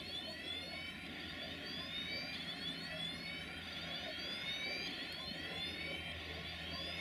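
Freight train's hopper wagons rolling away on the rails, their wheels giving high screeches that rise in pitch and repeat about once a second, over a low steady drone.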